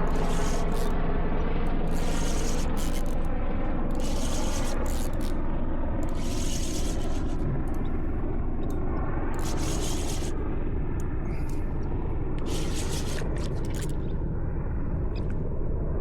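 Steady low rumble of wind buffeting the microphone, with a bursts of hiss coming and going every two seconds or so.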